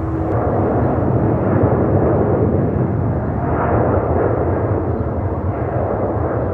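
Boeing 787-9 jet engines at high thrust on departure: a loud, steady, crackling rumble.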